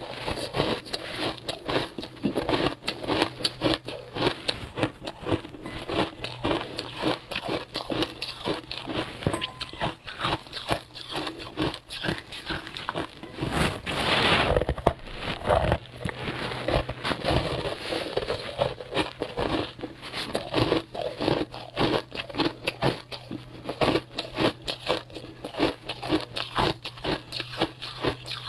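Close-up crunching and chewing of frozen passion-fruit ice: a continuous stream of rapid cracks and crunches, over a faint steady low hum.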